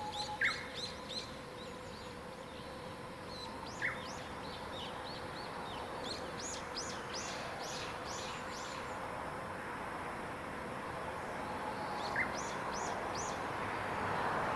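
Wild songbirds singing in the morning: rapid runs of high, quick chirping notes that come and go in phrases. Now and then a single lower, down-slurred call is heard. A steady background hiss grows louder toward the end.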